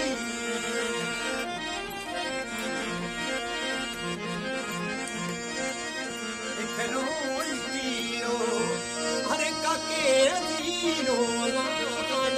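Instrumental introduction of a Rajasthani folk wedding song, with a sustained reed keyboard instrument and hand drums. An ornamented melody line comes in more strongly in the second half.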